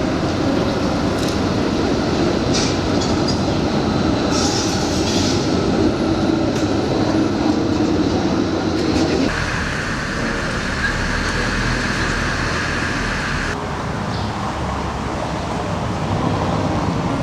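A rail vehicle running on its tracks with a steady rumble. About nine seconds in, a high wheel squeal sets in and holds for about four seconds.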